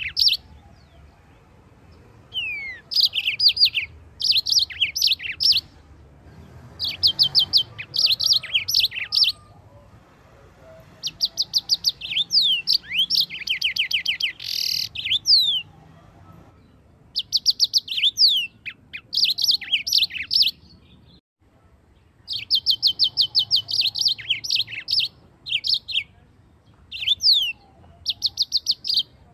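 Yellow-fronted canary (Mozambique canary) singing in phrases of rapid, high trilled notes lasting one to several seconds, separated by short pauses, with some notes sliding sharply downward.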